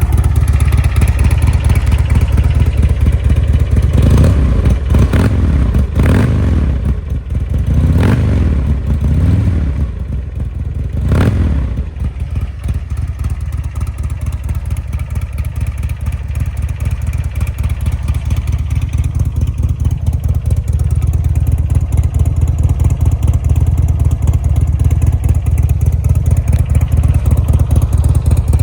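2004 Buell Lightning XB12S's air-cooled V-twin running, with a series of throttle blips a few seconds in, the revs rising and falling several times, and a last quick rev before it settles back to a steady idle.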